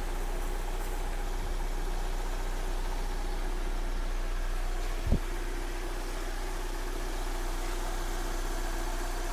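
Kia Sportage 3's overhauled G4NA 2.0-litre four-cylinder petrol engine idling steadily as it warms up for its break-in, with a single short thump about five seconds in.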